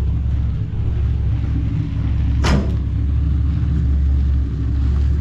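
Car engine idling with a deep, steady exhaust rumble, and one sharp sound about two and a half seconds in.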